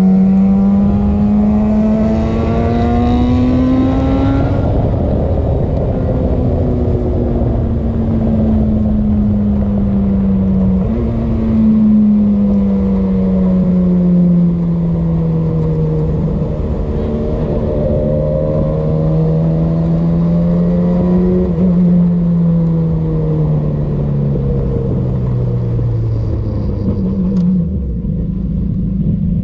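Radical race car engine running hard on track. Its pitch climbs, falls off and climbs again several times as the car accelerates and slows, then drops sharply near the end.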